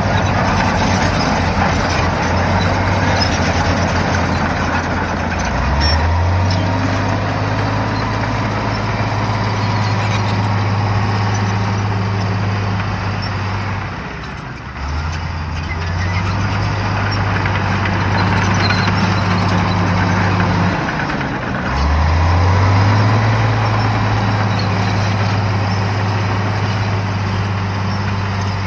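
Shantui bulldozer's diesel engine working hard, its pitch rising sharply three times as it takes load, about a fifth of the way in, around halfway and about three-quarters through, with a short drop just before halfway.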